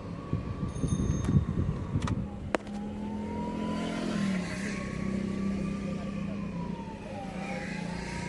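Mahindra Scorpio S5 BS6 diesel engine idling steadily, with a faint whine that rises and falls in pitch. A few sharp clicks and some irregular knocking and rustling come in the first three seconds.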